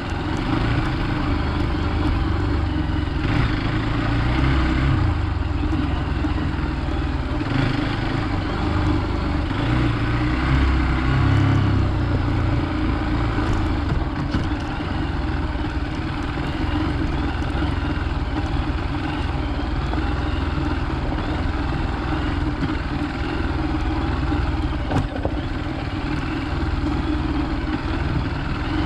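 Hero Xpulse 200 motorcycle's single-cylinder engine running off-road, the throttle opening in a few swells in the first half and then holding steadier.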